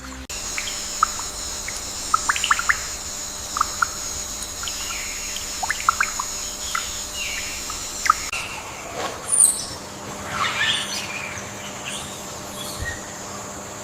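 Rainforest birds chirping in short calls over a steady high-pitched drone. The drone cuts off about eight seconds in, and louder sweeping calls follow.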